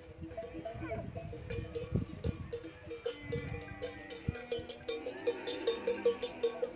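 Bells on a herd of camels clanking and clinking unevenly as the animals move, growing busier about halfway through, with an occasional animal call.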